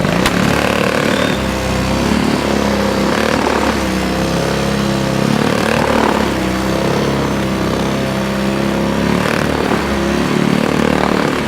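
A motor engine running steadily and loudly, with a deep hum and a pitch that wavers slightly.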